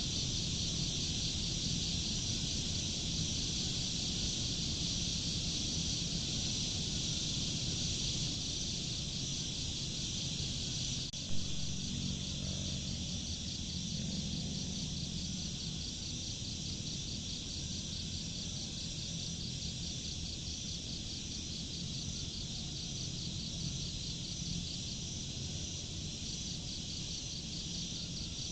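Steady insect chorus, a dense high trilling with a fine even pulse, over a low steady rumble; a single sharp click about eleven seconds in.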